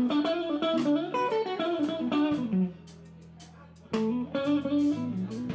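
A live band plays, with an electric guitar taking quick lead runs over bass and drums. The band drops out for about a second near the middle, then comes back in.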